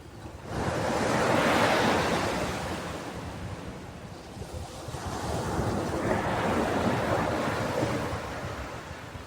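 Ocean waves washing onto a beach: two slow swells of surf, the first rising about half a second in and ebbing away, the second building just after the middle and fading near the end.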